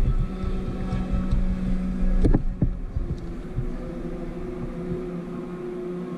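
An engine running with a steady hum and a sharp knock a little over two seconds in. The hum then settles on a steady, higher note while the deep rumble fades.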